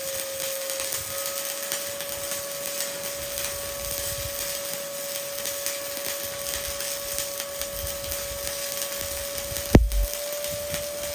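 Stick (shielded metal arc) welding with a 1/8-inch E7018 electrode: a steady crackling arc with a steady whine underneath, and one sharp knock near the end.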